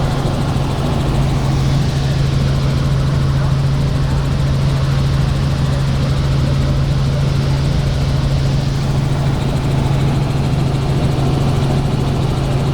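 Helicopter in flight, heard from inside the cabin: a steady low drone of the rotors and engine with an even rushing noise over it.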